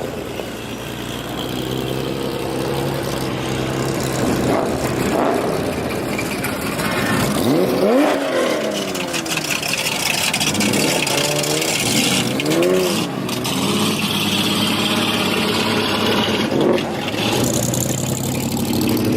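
Car and truck engines running as vehicles drive past, with an engine revving up and back down a few times midway.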